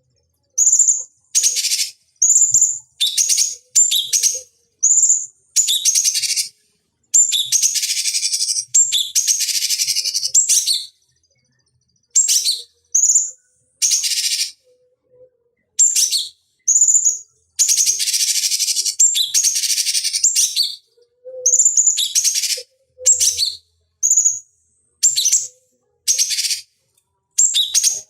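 Cucak cungkok calling over and over in a bird-training track: short, high, clear notes one after another, broken twice by longer harsh, buzzy passages lasting a few seconds.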